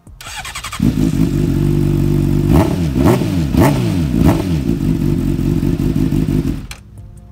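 Honda CBR 600F's inline-four engine revved while standing: held at raised revs, with four quick throttle blips in the middle, then dropping back to idle near the end.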